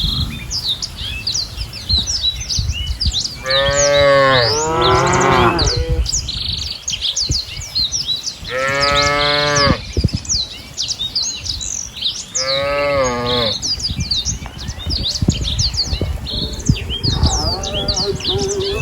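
Cattle mooing: about five long moos, each rising and falling in pitch, a few seconds apart, with birds chirping constantly in the background.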